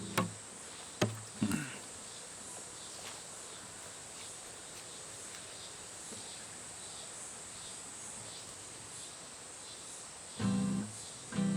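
A guitar is picked and struck a few times in the first two seconds. Then a long pause with only a faint, steady chirring of insects. About ten seconds in, chords are strummed again.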